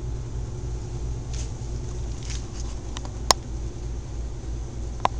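A steady low hum, with two sharp clicks: a louder one a little past the middle and a smaller one near the end.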